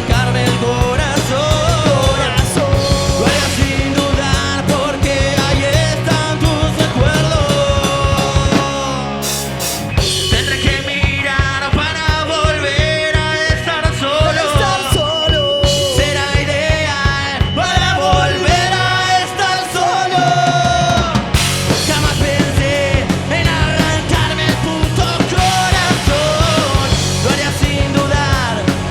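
Rock band playing live: a drum kit keeping a steady beat under guitars and singing. The drums and bass drop out briefly about nine seconds in, then the full band comes back.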